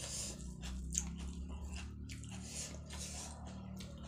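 Close-mouthed eating sounds: wet chewing of rice and dal with repeated lip smacks, several a second, and soft squishing as rice is mixed by hand on the plate. A steady low hum runs underneath.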